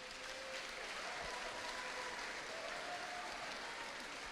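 An audience in a school auditorium applauding steadily, with a few faint cheers or whistles over the clapping.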